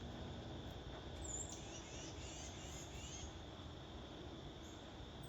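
Faint outdoor ambience on a rainy morning: a steady hiss with a small bird twittering in a quick run of short chirps from about a second in to just past the middle.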